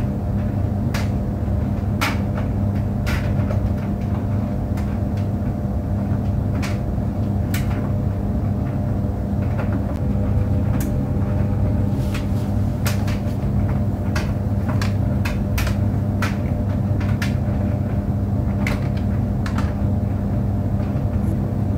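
Tumble dryer running: a steady low rumble and hum from the turning drum, with irregular sharp clicks and knocks scattered throughout as the load tumbles.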